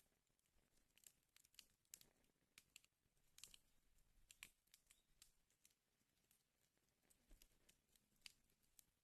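Wood fire in a fireplace crackling faintly, with irregular small pops and snaps over a soft hiss.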